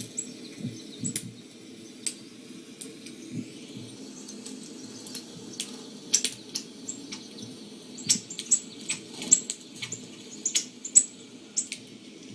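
Small birds chirping: many short, high chirps, coming thickest in a quick run in the second half, over a low steady hum.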